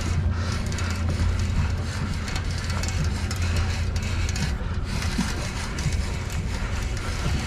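A boat's motor running steadily at low speed, a constant low hum, with a rushing noise of wind and water over it.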